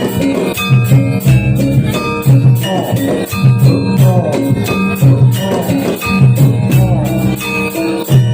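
Live accompaniment music for a jathilan horse dance: a percussion ensemble playing a steady repeating pattern of low pitched strokes with drum hits, and a gliding melodic line coming in several times above it.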